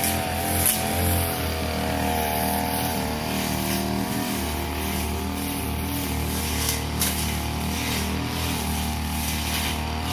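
Two-stroke brush cutter engine running steadily at high speed, its pitch wavering slightly.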